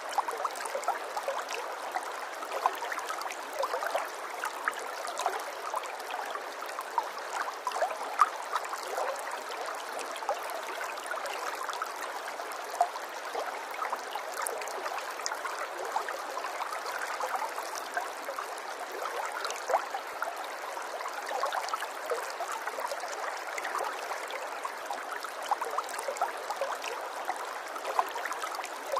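A small stream trickling and gurgling steadily, full of small splashes and droplet sounds, with no deep rumble.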